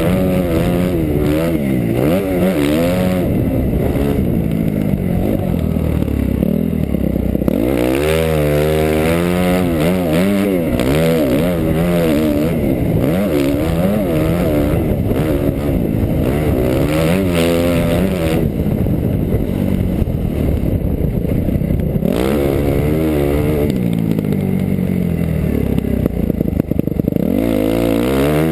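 2008 Suzuki RM-Z250's single-cylinder four-stroke engine, loud and up close, revving hard and dropping off over and over as the rider works the throttle and gears through a sand track.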